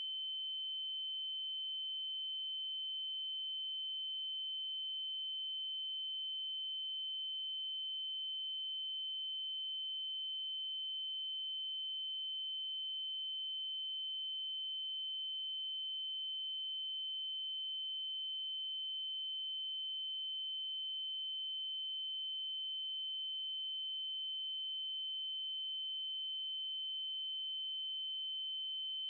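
Electronic 3072 Hz triangle-wave tone, a single steady high-pitched pitch held without change, with faint overtones above it.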